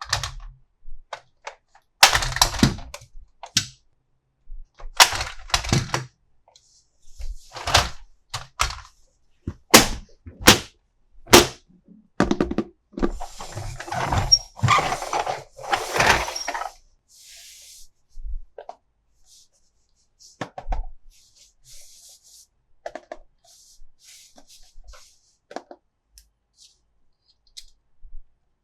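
Toy pieces and packaging handled close to the microphone: a series of sharp clicks, knocks and thunks, with several seconds of rustling in the middle.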